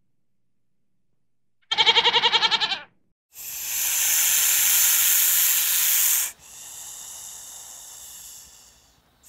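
A goat bleats once, a short quavering cry about two seconds in. Then a snake hisses: a loud hiss for about three seconds, followed by a softer hiss that fades away near the end.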